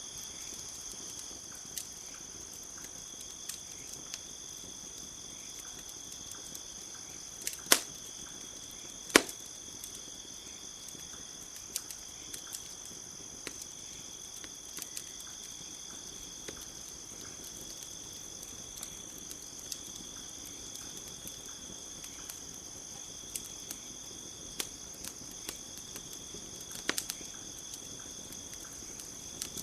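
Wood campfire crackling with scattered small clicks and a few sharp pops, the loudest about seven and nine seconds in, over a steady high-pitched chorus of crickets.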